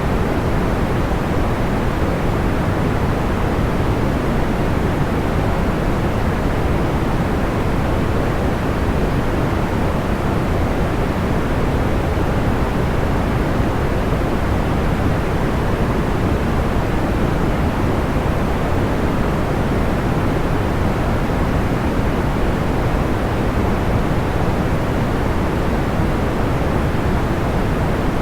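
Steady, soft noise for sleep: an even, deep rushing hiss weighted to the low end, with little above a couple of kilohertz. No separate fire crackles stand out.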